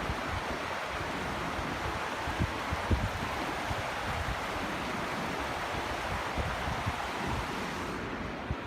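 Steady rush of falling water, with wind buffeting the microphone in irregular low thumps.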